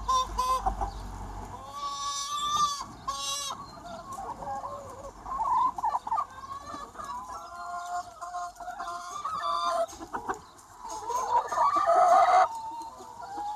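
A large free-range chicken flock clucking and calling over one another, with several drawn-out calls; the loudest, a long held call, comes near the end.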